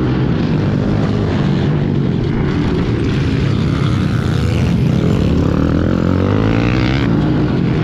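Pit bike engine racing at high revs, its pitch rising and falling as the throttle is worked.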